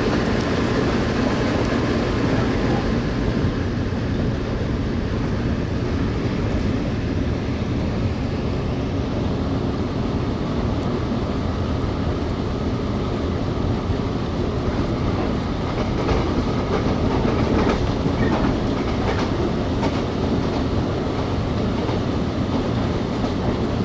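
Running noise inside a moving local electric train: a steady rumble of the wheels on the rails, with a faint click now and then.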